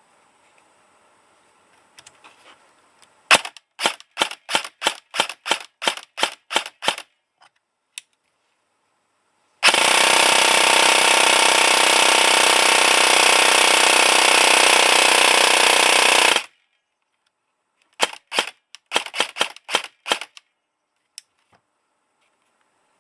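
Airsoft electric gun with a G&P 8 mm gearbox, M120 spring, MOSFET, 18:1 gears and an 11.1 V LiPo, test-firing. First comes a string of about a dozen single shots at roughly three a second. Then one continuous full-auto burst of about seven seconds, and near the end another quick string of single shots.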